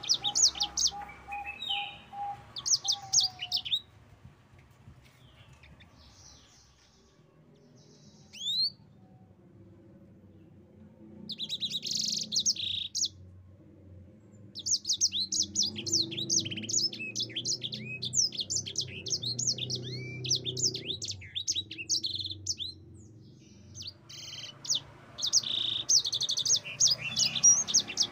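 Yellow-fronted canary (sanger) singing in long, rapid, twittering phrases, several bursts separated by pauses of a few seconds, with one lone chirp in the first long pause. A faint low hum runs underneath.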